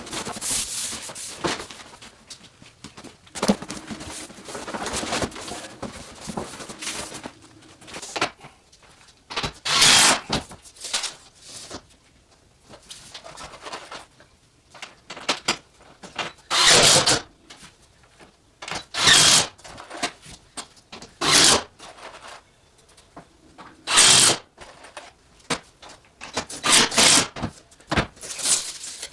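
Short, separate bursts of a handheld power tool, about seven of them at irregular intervals, with quieter handling and knocking noise between.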